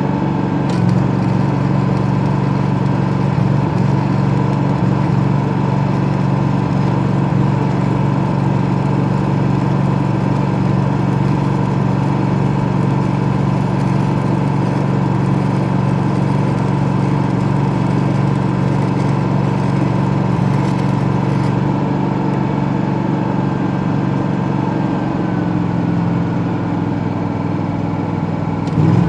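Engine-driven welding machine running steadily with a constant hum, over the continuous crackle of a stick-welding arc laying a bead on 3-inch steel pipe.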